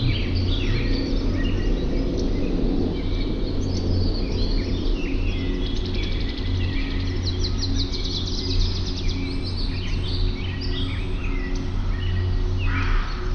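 Several songbirds chirping and singing over one another, with a rapid trill in the middle and a harsh call near the end, over a steady low hum.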